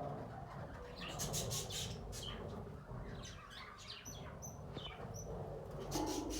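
Pet budgerigars chirping in bursts of rapid notes, with a few short, high whistled notes in between.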